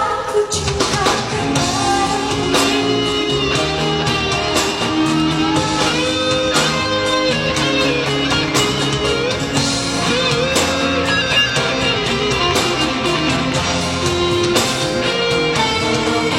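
Pop band music in a guitar-led instrumental passage, with little or no singing.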